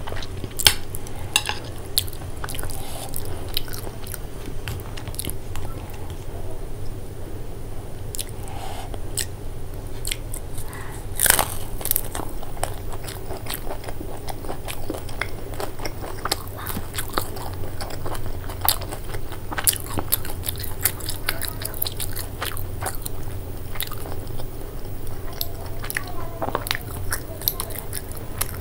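Close-miked eating sounds: steady chewing with many sharp, irregular crunches from bites of deep-fried momo dumplings, and a louder crunch about eleven seconds in.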